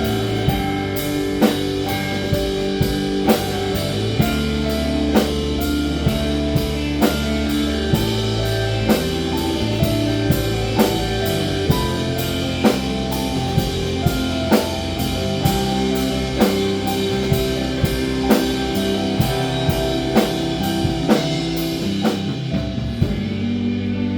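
Rock band playing an instrumental passage: drum kit keeping a steady beat under guitar chords. The cymbals drop out near the end, leaving the guitar and low drums.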